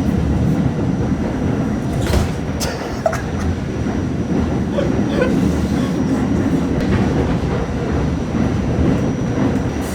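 Passenger train running on the rails: a steady, loud rumble of wheels on track, with a couple of sharp clacks about two seconds in.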